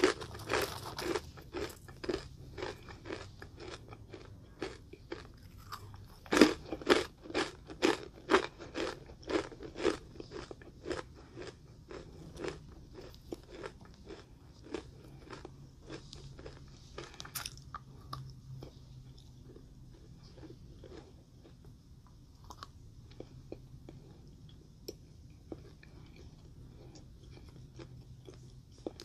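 A person chewing and crunching sweets close to the microphone, with wet mouth clicks. The chewing is busy and loud for roughly the first ten seconds, then thins out into scattered, quieter clicks.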